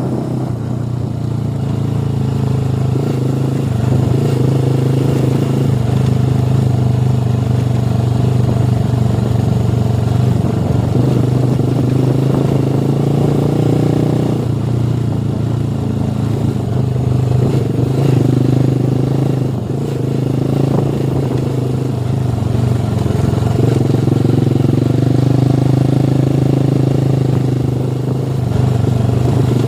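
Motorcycle engine running steadily while being ridden, its tone shifting a little every few seconds with the throttle.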